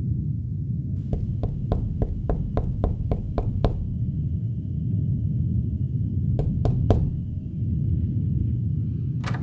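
Knocking on a door: a quick run of about ten knocks, then after a pause three more, over a steady low rumble.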